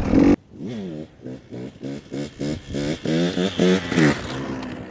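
KTM dirt bike engine revving hard for a wheelie, its pitch climbing in quick choppy pulses. It comes in about half a second in, after music cuts off suddenly.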